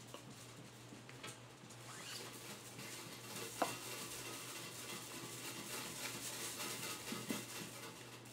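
Eating sounds of a person chewing a piece of chicken, a soft crackly chewing noise with a few sharp clicks, the loudest about three and a half seconds in, over a steady low hum.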